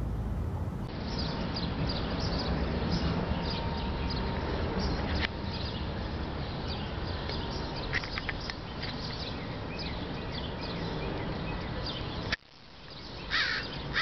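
Outdoor background noise with many short, high bird chirps, then, after a cut near the end, a few loud, harsh bird calls.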